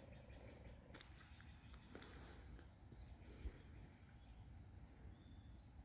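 Faint birdsong: short, high chirps and slurred whistles from small birds, repeated every second or so over quiet outdoor air, with one soft bump about three and a half seconds in.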